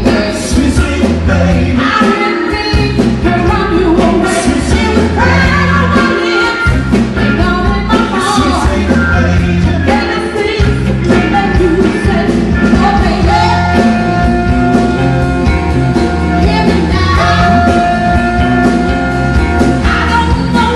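A band playing a rock-and-roll song with a singer, over a steady beat.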